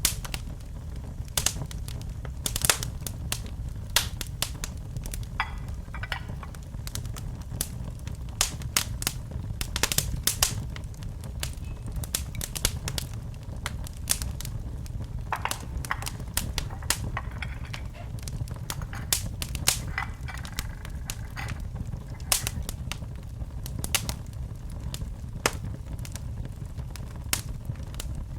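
Wood fire crackling in a fireplace: irregular sharp pops and snaps, several a second at times, over a steady low rumble.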